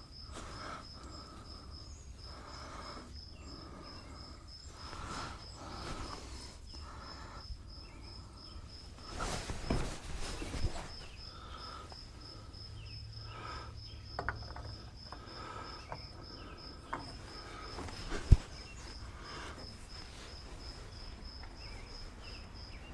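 An insect chirping steadily in rapid, even, high-pitched pulses, with a few faint knocks in the middle and one sharp click about 18 seconds in.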